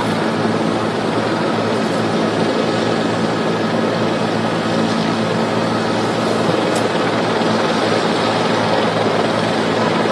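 Steady aircraft noise: a constant drone with several low, steady hum tones.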